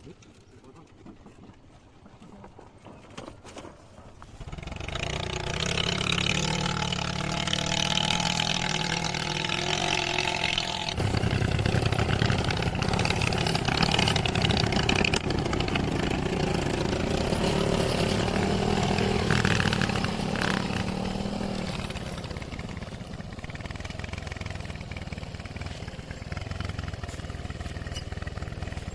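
A motorcycle engine comes in suddenly about four seconds in and runs steadily. Its note changes about halfway through, and it eases off a little near the end.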